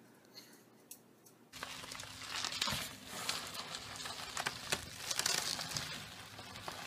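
Plastic bubble wrap crinkling and rustling as a small dog wriggles inside a tube of it, starting about a second and a half in after near quiet.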